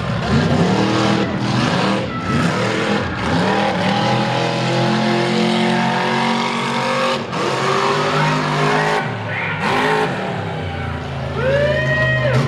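Mega truck engine revving hard at full throttle, its pitch climbing and dropping again and again with brief throttle lifts, and a sharp rise in revs near the end.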